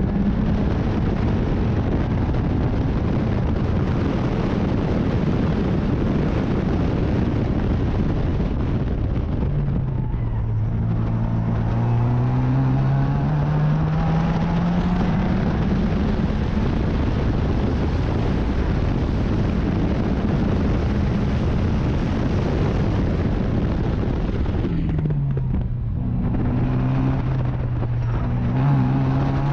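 Racing car engine at speed with heavy wind and road noise. Its note drops sharply about ten seconds in as the car slows, then climbs steadily as it accelerates; the same drop and climb come again near the end.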